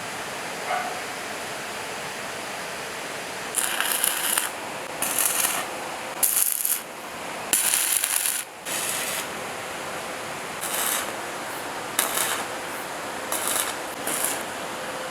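About a dozen short, irregular scraping strokes, each under a second, over a steady background hiss, starting about three and a half seconds in.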